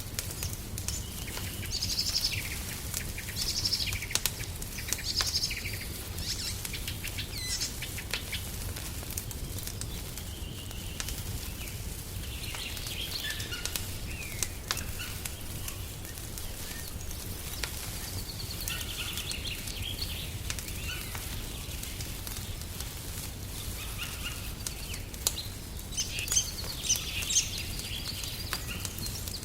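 Small birds chirping and singing in short repeated phrases over the scattered pops and crackles of a wood fire, with a steady low rumble underneath. The birdsong is busiest in the first few seconds and again near the end.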